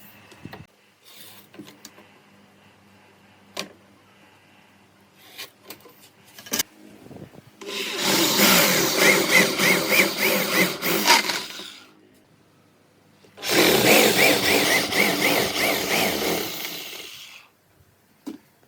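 A few light knocks and clicks, then a power tool run twice on wood, each run lasting about four seconds with a short pause between.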